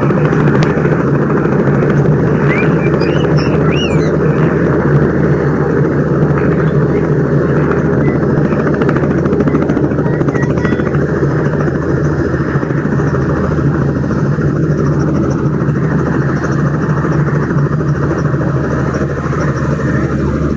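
Steady, loud engine drone with a constant low hum, unchanging throughout.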